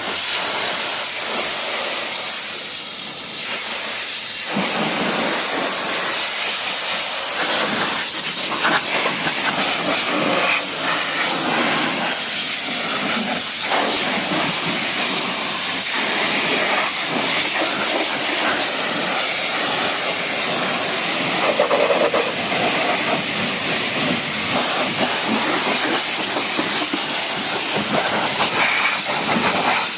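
High-pressure washer spray hissing steadily against a truck as it is washed, its tone shifting as the jet moves over the surface.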